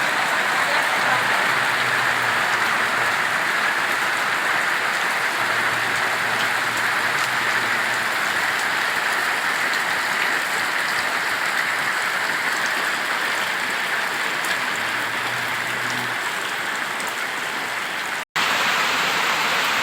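Heavy rain falling steadily, a dense even hiss of downpour, with a brief gap near the end.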